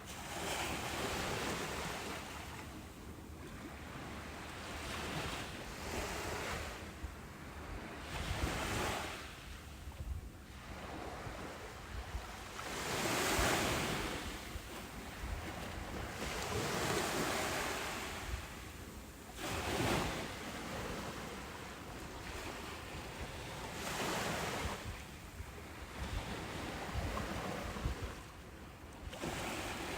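Ocean surf breaking on a beach: washes of white noise swell and ebb every few seconds, the biggest waves about thirteen and twenty seconds in.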